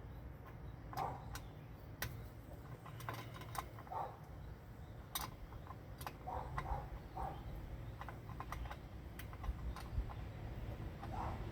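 Irregular light clicks and clinks of hand tools on bolts being worked loose.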